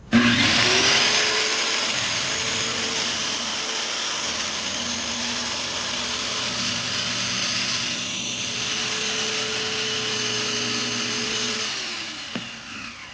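Electric power tool cutting a wooden board: the motor starts abruptly, runs steadily with a whine for about twelve seconds, then winds down with a falling pitch near the end.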